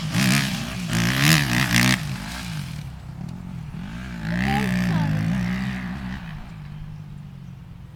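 Dirt bike engine revving, with bursts of throttle in the first two seconds and again around the middle, then the engine note fading away near the end.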